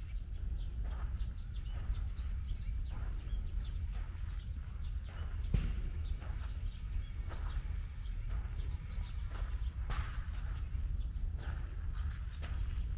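Small songbirds chirping and twittering in quick short calls throughout, over a steady low outdoor rumble, with one sharp tap about halfway through.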